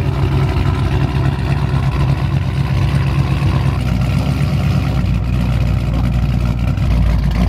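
The Chrysler 300 SRT8's cammed 6.1 Hemi V8, with its exhaust straight-piped, idling loud and steady just after a cold start. Its deep low end grows stronger about five seconds in.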